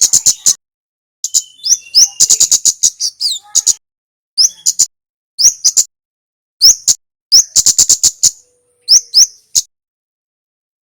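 Male kemade (kemlade) songbird singing: loud, high-pitched bursts of rapid sharp ticking notes mixed with short upward-sweeping chips, delivered in phrases with brief pauses between them. The song falls quiet near the end.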